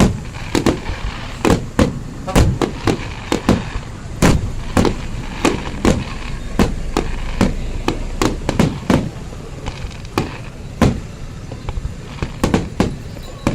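Fireworks going off in quick, irregular succession, about two or three sharp bangs a second, some louder booms among them, over a steady background rumble.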